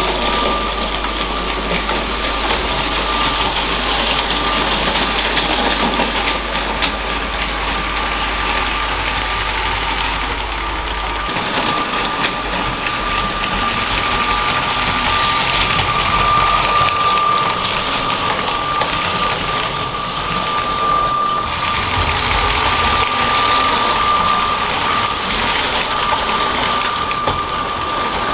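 Motorised LEGO train running on plastic track: the electric motor's steady whine with the wheels clicking along the rails.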